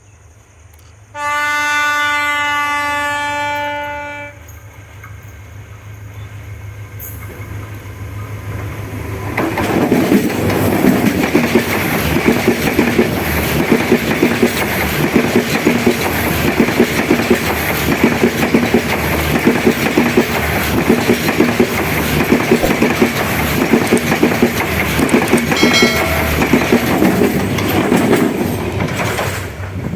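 An S13a diesel multiple unit sounds a long horn blast about a second in, lasting about three seconds. The train's rumble then builds as it approaches, and from about ten seconds in it passes close by for some twenty seconds: loud running noise with a steady clickety-clack of wheels over rail joints and a brief second tone near the end.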